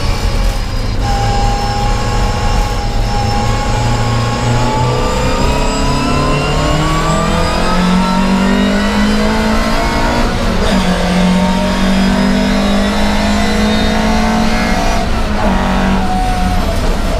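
Volvo 544 race car engine heard from inside the cabin, pulling hard on the throttle. Its pitch climbs slowly for about ten seconds, dips briefly, then climbs again.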